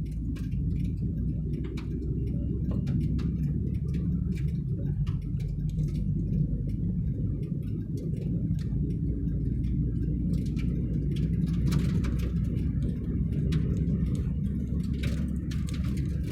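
Steady low road and engine rumble inside a moving car's cabin, with scattered light clicks and rattles over it.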